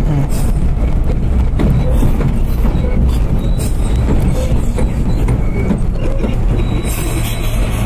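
R32 subway train running on elevated track: a steady rumble of wheels and motors with repeated clicks of wheels over rail joints. A brighter high hiss rises near the end.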